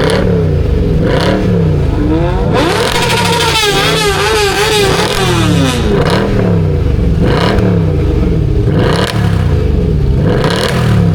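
Car engine revved over and over, its pitch climbing and dropping about once a second. A louder, harsher stretch of hard revving comes about two and a half seconds in and lasts around three seconds.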